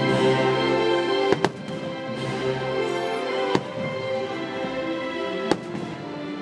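Fireworks show soundtrack music, crossed by sharp firework bangs: two close together about a second and a half in, another at about three and a half seconds, and one more near the end.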